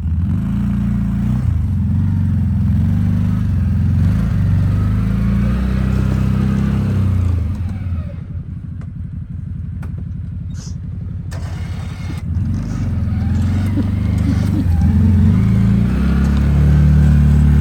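Engine of a CFMOTO UForce 800 side-by-side running under load while plowing deep snow, its pitch rising and falling. It drops quieter about eight seconds in, then builds up again toward the end.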